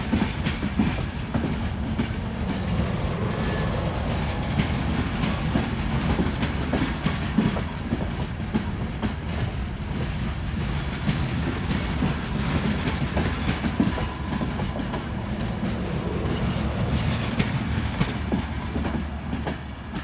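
Passenger train rolling past on jointed track: a steady low rumble with wheels clicking over the rail joints throughout.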